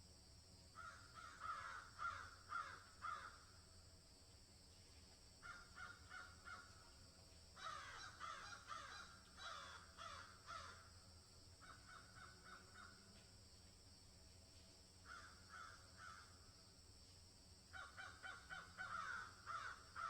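Faint outdoor ambience of a bird giving six bouts of short, rapidly repeated harsh calls, over a steady high-pitched hiss.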